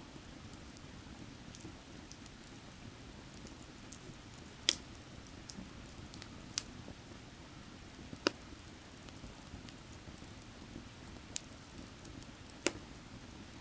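Firewood burning, with sharp crackling pops every second or two and fainter ticks between, over the steady low rush of a creek.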